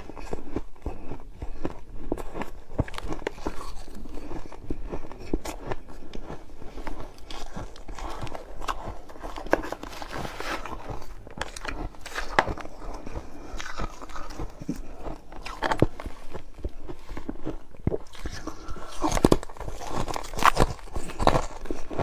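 Crisp, brittle pieces being smashed and crushed by hand, giving a continuous run of sharp crunches and cracks. The crunches come denser and louder about halfway through and again near the end.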